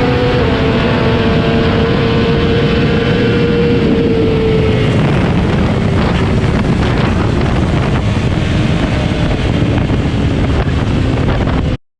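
Motorcycle engine running steadily, its pitch sinking and fading about four to five seconds in, over a dense rushing noise; the sound cuts off abruptly near the end.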